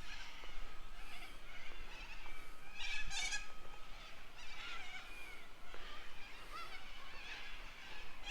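Birds calling in the background, a mix of faint scattered calls with one louder call about three seconds in.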